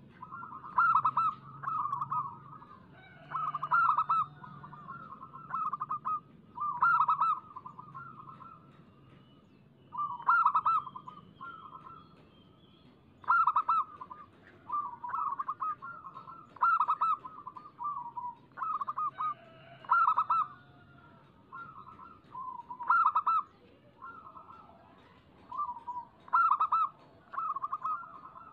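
Zebra doves (local perkutut) cooing, phrase after phrase of quick, bubbling staccato notes with a short pause between phrases, in the fast, busy singing that keepers call gacor.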